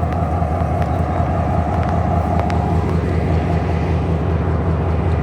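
Passenger train running, a steady low rumble with a steady hum that fades away about three seconds in, and a few faint clicks.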